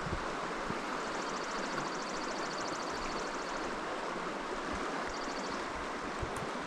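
Steady rush of a flowing river. A faint, fast ticking comes and goes above it, once for about two seconds and again briefly near the end.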